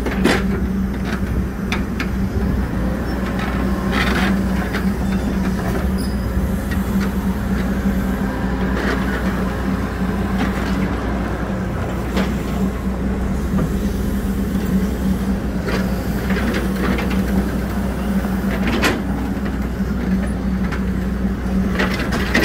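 Hidromek 102S backhoe loader's diesel engine running steadily at work, a constant low hum, with scattered short knocks and clanks from the working gear.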